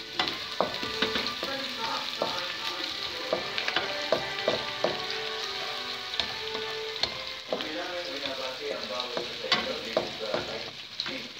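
Chopped garlic and onion sizzling in hot oil in a nonstick wok, being sautéed, with a wooden spatula scraping and clicking against the pan as it is stirred.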